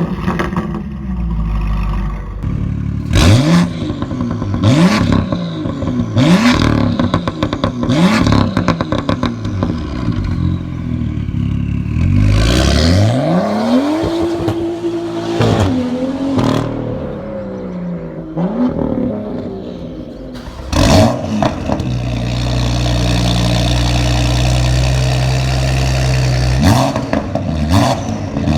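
BMW M2 (F87) turbocharged straight-six through an MGmotorsport aftermarket exhaust being revved: a run of short throttle blips about every second and a half, then a long rev that climbs and holds high for a couple of seconds before dropping. A single loud crack comes about two-thirds through, followed by a few seconds of steady raised revs and quick blips again near the end.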